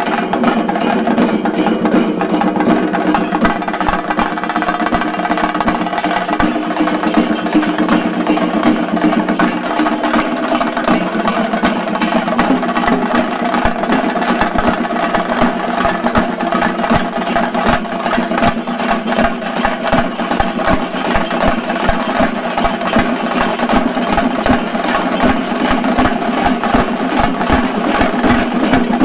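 Shinkarimelam troupe playing chenda drums, loud fast rolls of stick strokes that keep up without a break.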